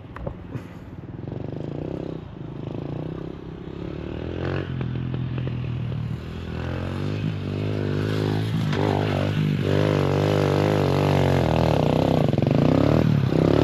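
Dirt bike engine revving, its pitch rising and falling in repeated blips of the throttle, growing steadily louder and loudest near the end.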